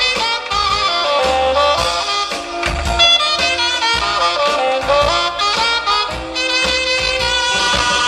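A live rock and roll band playing an instrumental break between verses, with a saxophone carrying the melody over the band.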